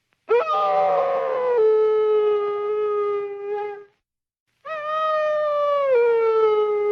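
Two long canine howls, wolf or dog, separated by a gap of dead silence. Each starts on a higher note and drops partway through to a lower note that it holds steady.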